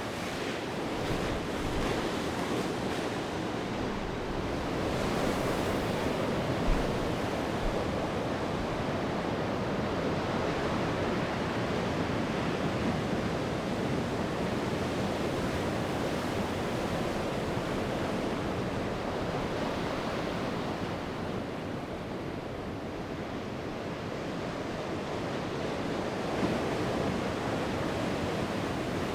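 Sea surf: waves breaking and washing up the shore in a continuous rush, swelling a little louder a few seconds in and again near the end.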